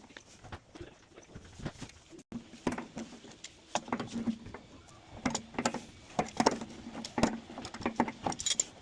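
Irregular clicks, knocks and clinks of hand work on the metal parts of an electric water heater, with short low tones among them.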